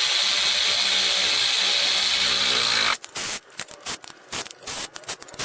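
Quarter-inch drive impact running a transmission pan bolt down for about three seconds, then a series of short bursts as the bolts are snugged down evenly.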